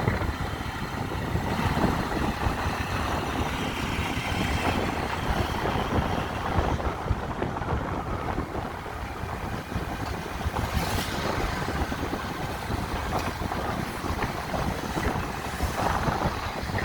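Dense street traffic of motorbike and car engines running and passing in a steady rumble, with wind buffeting the microphone. A brief sharp noise comes about eleven seconds in.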